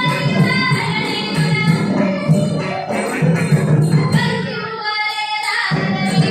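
Ottan thullal music: a sung verse carried over mridangam drumming and jingling elathalam hand cymbals. The drums drop out for a moment about five seconds in while the singing goes on.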